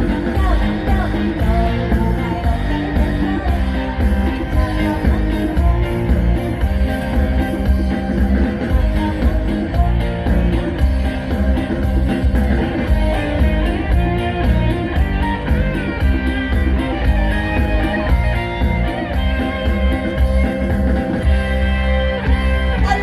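Live Thai luk thung band playing loudly, with a heavy bass beat, guitars and a woman singing, as heard over a concert PA.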